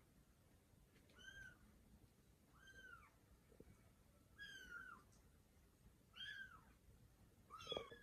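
Kitten mewing: five faint, short, high-pitched mews, each rising and falling in pitch, about every second and a half.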